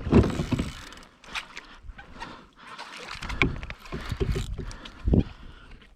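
Water splashing and sloshing around a plastic fishing kayak, with scattered knocks and low thumps on the hull as a yellowfin tuna is worked in beside the boat; the loudest thump comes a little after five seconds in.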